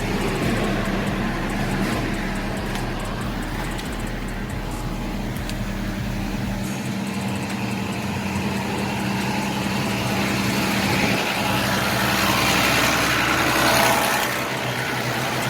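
Semi truck's diesel engine running steadily, with a rushing noise that swells near the end.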